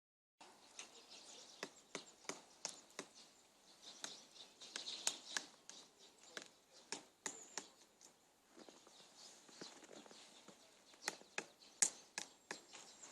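Irregular sharp tapping knocks, one to three a second, sometimes in quick clusters, like something small pecking or tapping on a hard surface.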